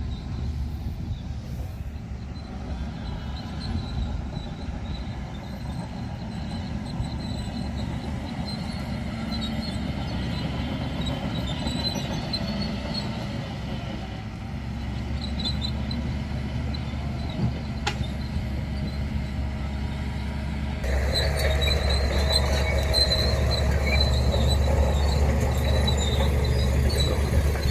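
Bulldozer's diesel engine running under load, with a thin, high metallic squeal over it that fits its steel tracks. The sound gets louder about three-quarters of the way through.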